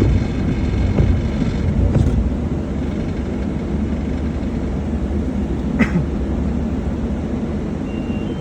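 Steady low rumble of a car running, with a few knocks in the first two seconds and a short sharp sound with a falling pitch about six seconds in.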